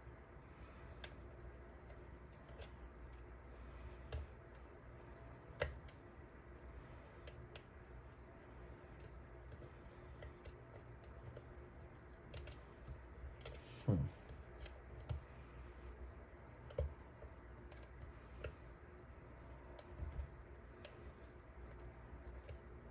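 Faint, irregular metallic clicks and ticks of a lock pick working the pins of a dimple lock cylinder, with a few louder clicks about four, six and fourteen seconds in.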